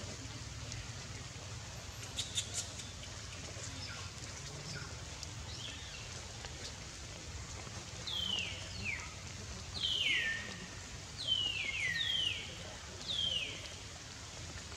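A bird calling: a series of about six short whistles, each falling in pitch, starting about eight seconds in, over a steady hiss of rain. A few sharp clicks come about two seconds in.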